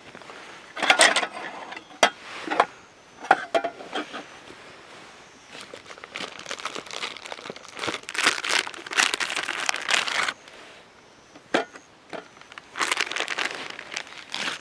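Irregular bursts of crinkling and rustling, each a second or two long, with a few sharp clicks in between: something crinkly being handled close to the microphone.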